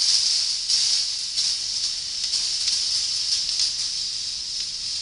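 Steel balls rolling along the stainless steel wire tracks of a rolling ball sculpture: a steady high hissing rattle with small clicks, a little louder in the first second.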